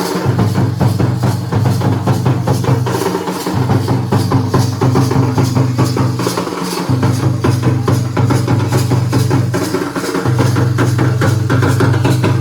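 Dhol and nagada drums played together in fast, dense drumming. A steady low tone sounds under the drums and breaks off briefly about every three seconds.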